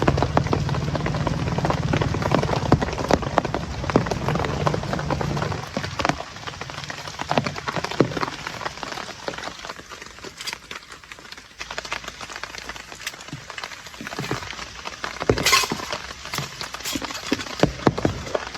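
Rain pattering on a surface in irregular drops and ticks, with a few sharper knocks; a low steady drone underneath stops about a third of the way in.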